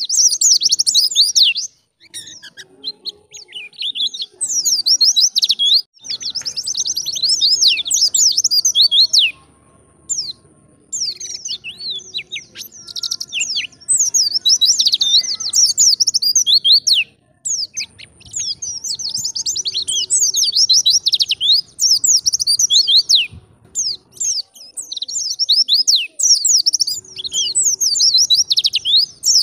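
White-eye (pleci) singing a fast, high twittering song. The song comes in bursts of one to three seconds, with short pauses between them.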